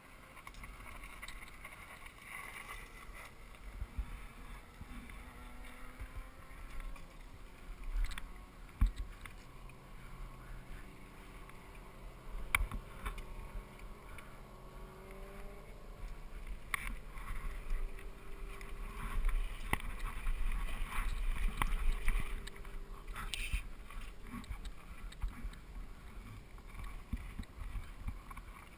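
Mountain bike riding down a dirt trail: a steady rumble from the tyres, with irregular knocks and clatters from the bike going over bumps.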